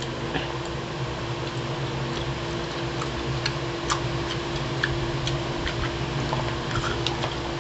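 A person chewing food, with small scattered mouth clicks, over a steady mechanical hum from an appliance in the room.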